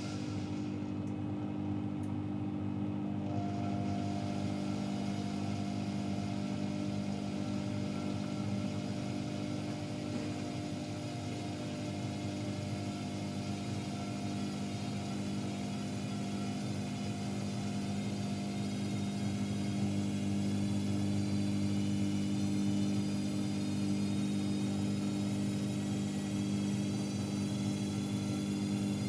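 AEG Electrolux Lavamat L74810 washing machine's motor running with a steady whir and hum, growing slightly louder about two-thirds of the way through.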